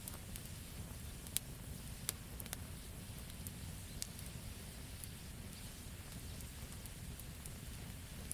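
Wood campfire crackling: scattered sharp pops and snaps over a steady low rumble, the loudest pop about a second and a half in.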